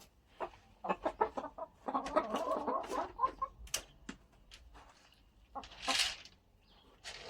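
Chickens clucking: a quick run of short clucks, then a louder stretch of busy overlapping calls about two to three seconds in. Scattered small clicks, and a brief scratchy rustle near the end.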